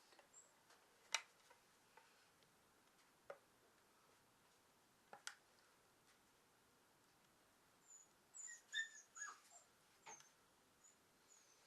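Mostly near silence, broken by a few faint sharp clicks, then a dog's short high-pitched whines about eight to ten seconds in.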